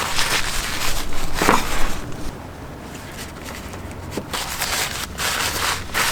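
Rustling and crinkling handling noise from a wrapper, as food is put together and wrapped by hand, in uneven bursts with a quieter stretch in the middle.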